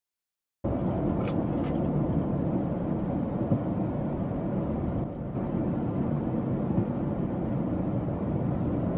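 Steady road and engine noise of a moving car picked up by a dashcam, starting after a brief moment of dead silence.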